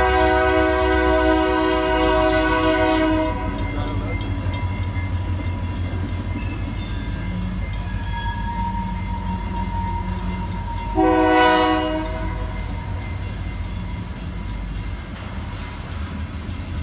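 Freight train rolling through a railroad grade crossing, with a steady low rumble from the cars throughout. The locomotive's air horn sounds as a chord of several notes, the crossing warning: one long blast that ends about three seconds in, then a short blast about eleven seconds in.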